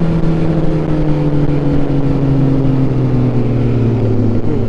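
Motorcycle engine running, its pitch falling slowly and steadily as the revs come down, over a steady rush of wind noise.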